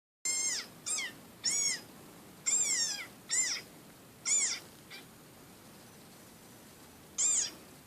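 Desert rain frog squeaking, played back from a video: short, high-pitched squeaks that rise and fall in pitch, six in quick succession, then a pause and one more near the end.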